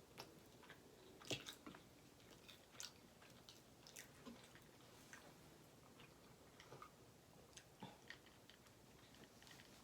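A person chewing food at close range: faint, scattered wet mouth clicks and smacks, the loudest about a second and a half in.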